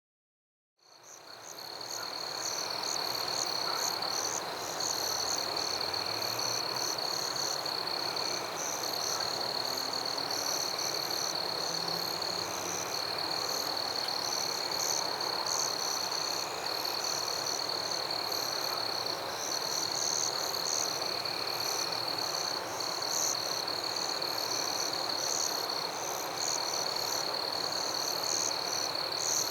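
Rainforest ambience fading in about a second in: a dense animal chorus with a steady high-pitched drone and rapid chirping over it.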